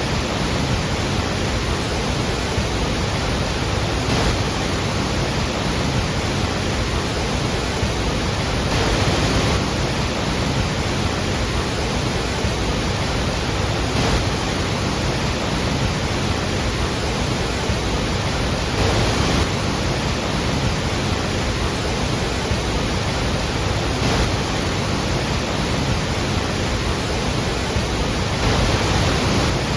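Large waterfall thundering steadily, a dense unbroken rush of falling water that swells slightly every few seconds.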